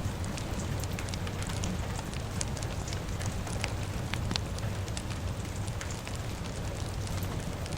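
Wood fire crackling, with frequent sharp pops over a steady hiss and low rumble, mixed with falling rain.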